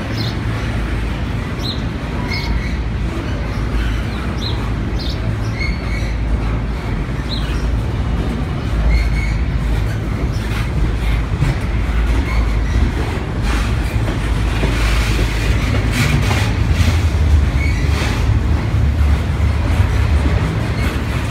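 Double-stack intermodal freight train passing close by: a steady, loud rumble of steel wheels on rail from the container well cars, with short high chirps and scattered clicks in the second half.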